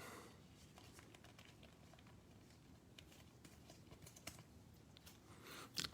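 Near silence with faint, scattered light taps and clicks of trading cards being slid into plastic card sleeves.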